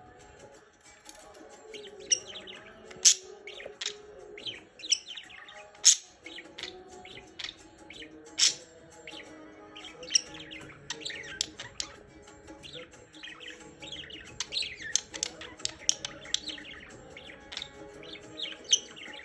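Pet budgerigars chirping and warbling: a busy run of short, sharp, high chirps and quick sweeping notes, with a few louder single chirps standing out.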